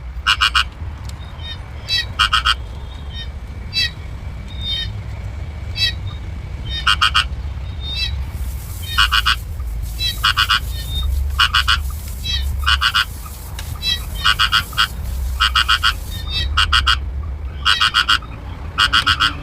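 An animal's croaking call repeated every second or so, each call a quick train of three or four pulses, over a steady low hum.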